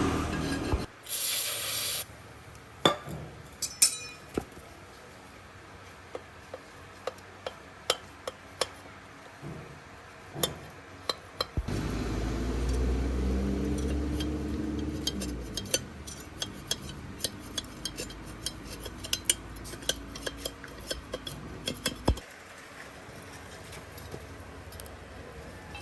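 Scattered light metallic clinks and taps, like hand tools knocking against metal, with a short loud hiss about a second in. A low rumble like a passing vehicle comes in near the middle.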